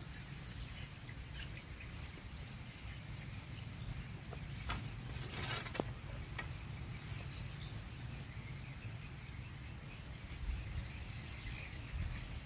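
Light rain pattering over a steady low rumble, with a short noise burst about five and a half seconds in.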